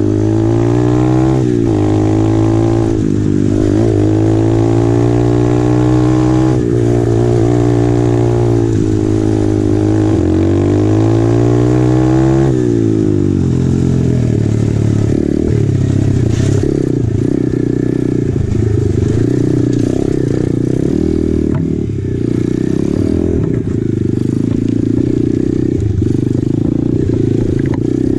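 Single-cylinder four-stroke engine of a 2020 Apollo RFZ 125cc pit bike, riding a trail. The revs rise and fall over and over, then from about twelve seconds in it settles into a steadier, rougher note at lower revs.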